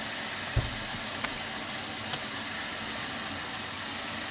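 Water pump running steadily at full power, a constant noisy hum and hiss, with a single low thump about half a second in.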